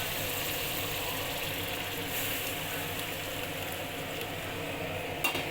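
A pan of chicken curry cooking on a gas stove after hot water has been poured in, giving a steady, even hiss with a low hum. There is one short click about five seconds in.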